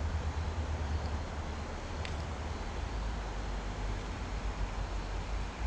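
Steady outdoor background noise: an even hiss over a low rumble, with a faint click about two seconds in.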